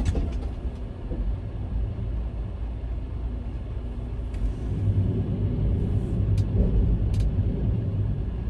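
Diesel engine of a semi-truck running with a steady low rumble, which grows louder about halfway through. A few faint clicks sound over it.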